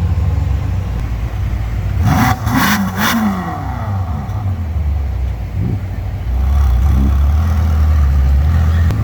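Ferrari engines and exhausts revving: a few quick blips that rise and fall in pitch, with three sharp cracks about two to three seconds in. A louder, steady low rumble of passing cars sets in about six seconds in.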